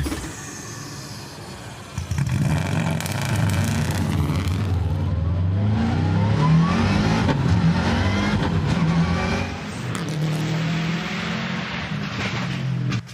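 Racing car engines revving and accelerating hard. There is an abrupt change about two seconds in, after which a loud engine climbs in pitch in several rising sweeps.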